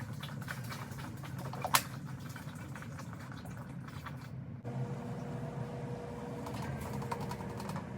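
Water being poured from a bottle into a water tank, with a sharp knock a little under two seconds in.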